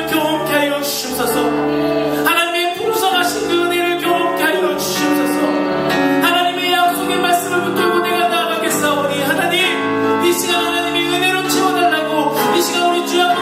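Worship song sung with instrumental accompaniment: a singing voice over sustained chords and a steady bass line.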